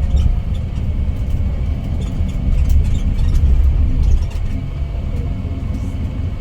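Scania K410IB coach under way: a steady low engine and road rumble with a few faint clicks on top.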